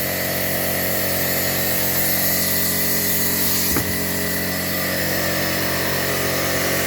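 Motor-driven workshop machine, most likely the air compressor, running steadily with a hum and hiss, with one brief knock about four seconds in.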